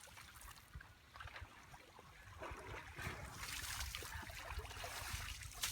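River water splashing and trickling, growing louder and hissier about two and a half seconds in, over a steady low rumble.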